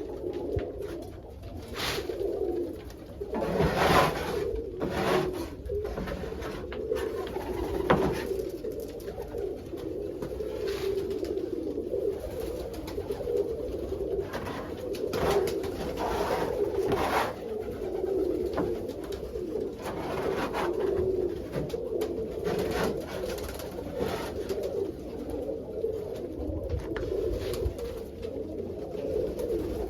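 A coop full of domestic pigeons cooing continuously, with occasional short knocks and scrapes, the loudest about four and eight seconds in.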